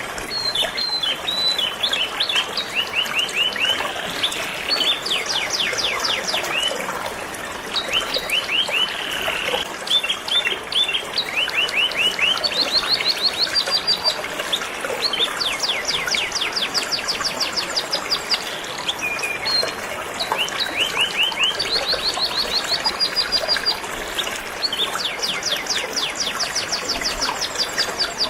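Canary singing in long, fast trills of repeated notes, one phrase after another, over the steady rush of flowing river water.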